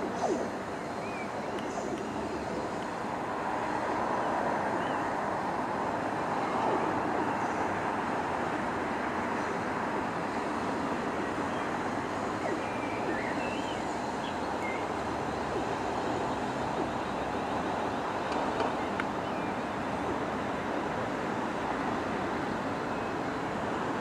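Class 450 Desiro electric multiple unit coming slowly into the station: a steady rolling rumble of wheels on rail with the hum of its running gear. A few faint high chirps sound around halfway.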